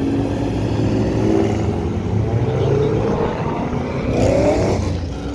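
Chevrolet Camaro's engine accelerating past, its pitch climbing through the revs, with a steep rise about four seconds in that breaks off just before the end.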